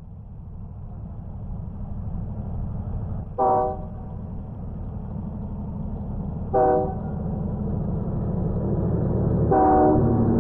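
Train running with a low, steady rumble that fades in and grows louder, and its horn sounding three short blasts about three seconds apart, the last a little longer.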